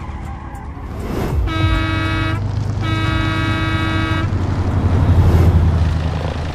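A vehicle horn sounds twice, a short blast and then a longer one, over a low engine rumble that swells after the horn.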